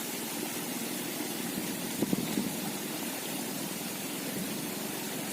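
Steady rushing noise of flowing stream water, with one faint knock about two seconds in.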